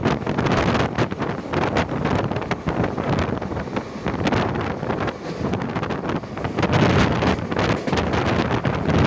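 Wind rushing and buffeting against the microphone at the window of a moving express train, over the train's running noise with frequent short irregular clatters.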